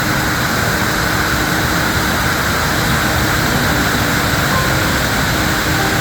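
Steady rushing of the Coo waterfall, the Amblève river pouring over its 15-metre drop.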